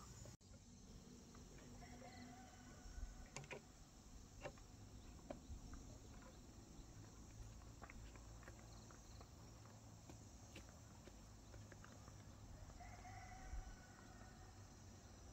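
Near silence: a faint background with scattered small clicks and taps.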